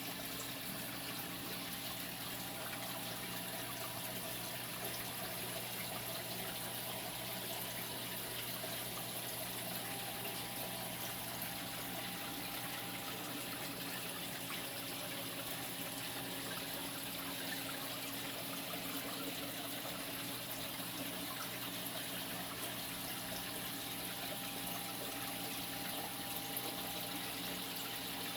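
Saltwater aquarium system's water circulating steadily, an even rush and trickle of flowing water with a low, constant pump hum beneath it.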